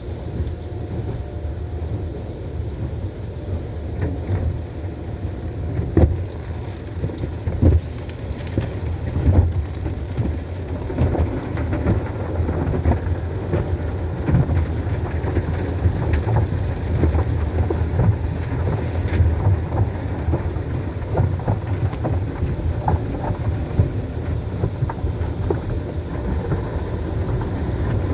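Automatic car wash heard from inside the car: water spraying and drumming on the body over a steady low rumble of the wash machinery, with irregular thumps and slaps from about four seconds in.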